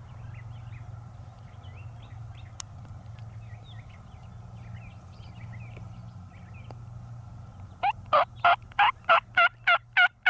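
Faint small-bird chirps over a low steady hum, then near the end a loud, evenly spaced series of short turkey calls, about four a second.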